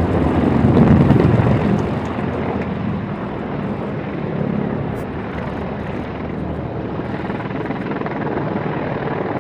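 Helicopter engine and rotor noise, louder for the first two seconds and then steady.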